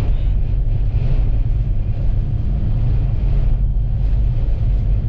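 Vehicle driving at speed: a steady low rumble of engine and road noise.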